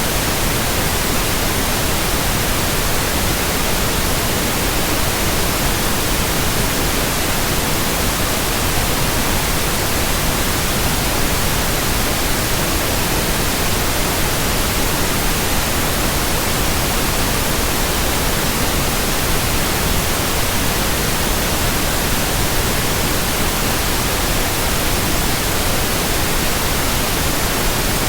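Steady white-noise hiss, spread evenly from low to high pitches, with no tones, rhythm or change in loudness.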